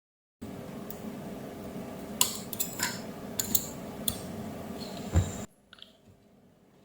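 A handful of sharp metallic clinks and clicks from small tools being handled on a workbench, over a steady low hum, with a heavier knock about five seconds in.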